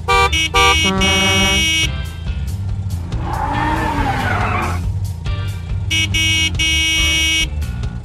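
Cartoon car horns honking in a series of short toots and longer blasts, with a tyre screech in the middle, over background music with a steady beat.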